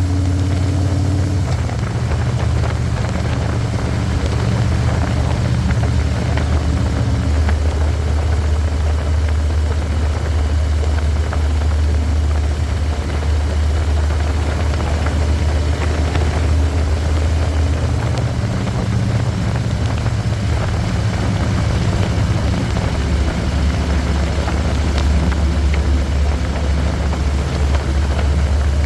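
Harley-Davidson Electra Glide's Milwaukee-Eight V-twin running on the road, its low engine note shifting in pitch a few times as the speed changes, with a steady rushing hiss over it.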